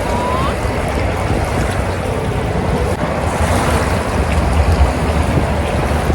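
Wind buffeting the microphone: a steady rushing noise with a low, uneven rumble.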